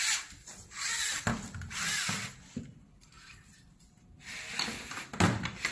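Hand handling of Roman blind parts: fabric and plastic rustling and rubbing in a few short strokes, with a few light knocks, the loudest near the end.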